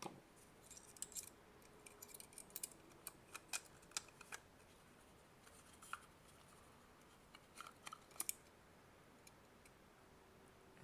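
Faint, scattered clicks and light scraping of small plastic parts of an opened AC adapter being handled, in two loose clusters.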